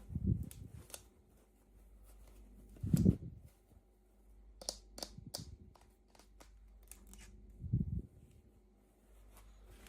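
Hands handling small plastic toy packaging. There are three dull knocks, at the start, about three seconds in and near the end, and a quick run of sharp clicks and snips in the middle.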